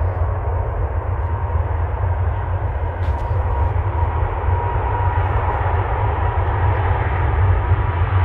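Jet airliner engines, a steady rush with a faint whine that grows slowly louder.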